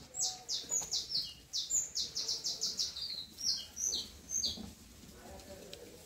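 A bird calling: a rapid series of short, high, falling notes, about four a second, that stops about four and a half seconds in.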